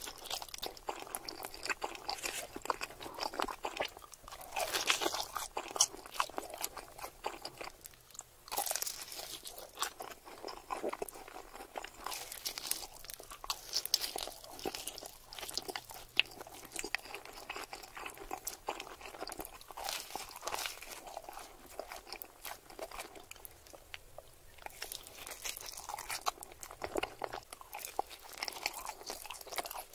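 Close-miked biting and chewing of pepperoni pizza, the crust crunching in dense, irregular crackles.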